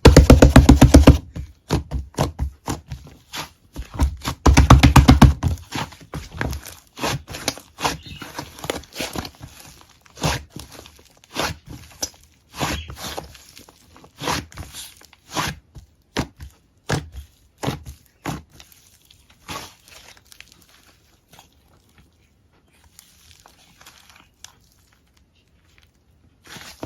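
Slime being squeezed and pressed by hand: two bursts of rapid crackling pops near the start and about four seconds in, then scattered separate squelches and clicks that thin out toward the end.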